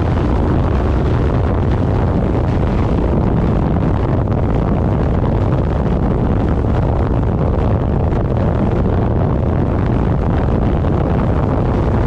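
Steady loud wind rushing and buffeting over the microphone of a vehicle moving at speed, with the vehicle's running noise beneath it.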